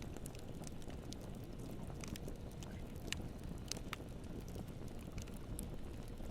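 Wood campfire burning: a steady low rush of flame with scattered sharp crackles and pops, two of them louder a little past the middle.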